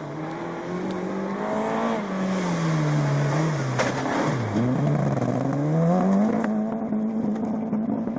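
Rally car engine running hard at speed: it revs up, drops in pitch for a couple of seconds while slowing into a corner, then climbs again as the car accelerates and holds high revs, easing off near the end.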